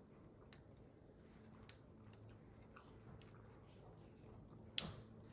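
Faint mouth sounds of chewing prawns, with scattered small clicks and one sharper click near the end.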